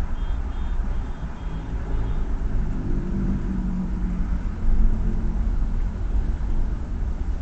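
Car driving with a steady low road and engine rumble. An engine hum comes up for a few seconds in the middle, and faint short high beeps sound in the first two seconds.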